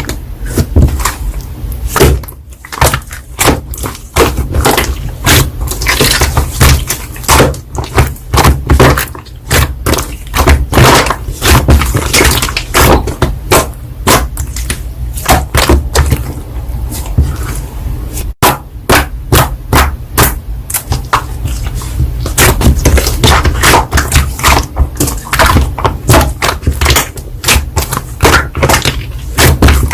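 Slime being squeezed and pressed by hand, giving a dense, irregular run of sharp clicks and pops.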